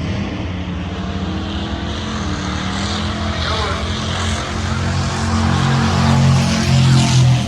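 A loud engine running with a low, steady throb, growing louder over the seconds as it nears.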